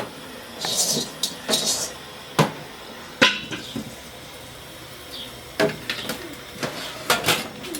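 Cooking pots and utensils being handled: irregular sharp knocks and clatters, with a few short hissing noises in the first couple of seconds.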